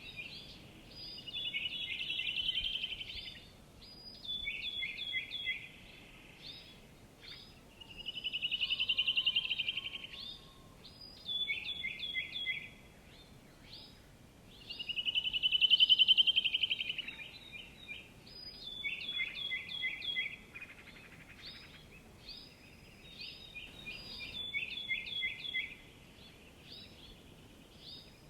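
Songbird singing: runs of short, quick down-slurred notes alternating with a rapid trill that swells and fades, repeated about every seven seconds over faint background hiss.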